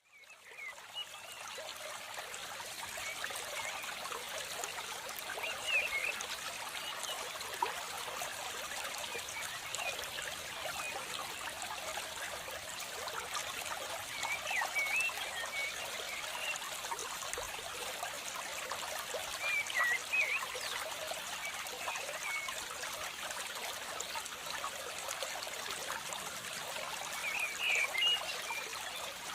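Steady trickling of running water, with short chirping calls every few seconds.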